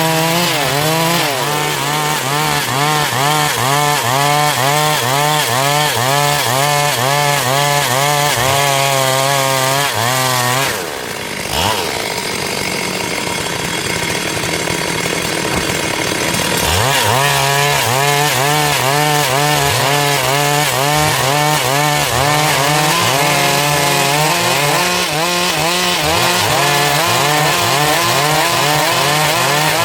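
Stihl MS 382 two-stroke chainsaw running at high throttle through dry wood, its engine note swaying up and down about twice a second as it works the cut. About a third of the way in the pitch drops and the sound turns rougher and more even for several seconds, then the rising-and-falling cutting note returns.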